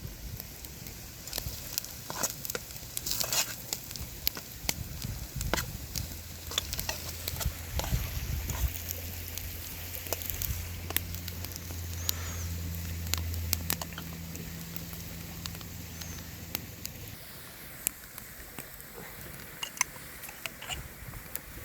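Food frying and sizzling in a pan, with many sharp crackles and clicks throughout. A low steady hum runs through the middle.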